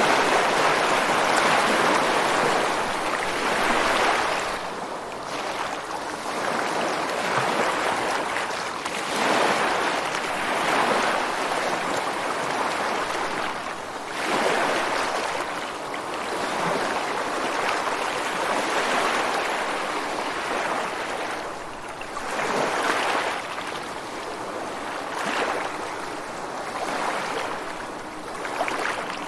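Ocean surf washing onto a beach and against rocks, a continuous rush that swells and ebbs every few seconds as each wave comes in.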